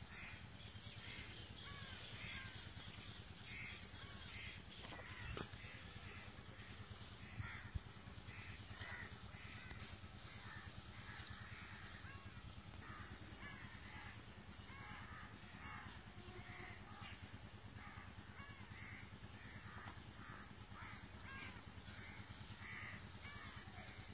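Birds calling over and over, faint, over a steady low hum, with a couple of soft knocks.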